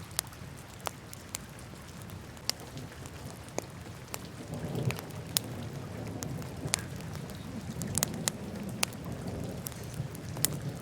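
Wood fire burning in a fireplace: irregular sharp crackles and pops over a low steady rush of flame, which grows a little louder about four seconds in.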